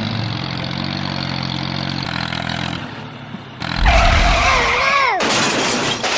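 A motor running steadily. About four seconds in comes a loud thump with a whine that wavers and falls in pitch, then a steady hiss like air being let out.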